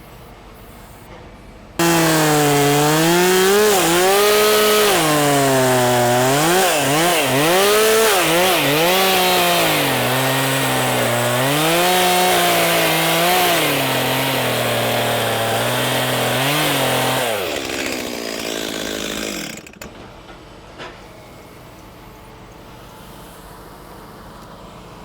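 Chainsaw cutting through a large oak trunk, its engine pitch dipping and recovering over and over as the bar bogs in the wood, the bar having just been pinched at a knot. It starts sharply about two seconds in, runs for about fifteen seconds, then throttles off and winds down.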